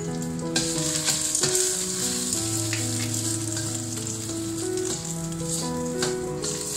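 Salted egg yolk pieces sizzling in hot oil in a stainless steel wok, stirred with a metal spatula that scrapes the pan a few times. The sizzle grows louder about half a second in. Background music with sustained notes plays underneath.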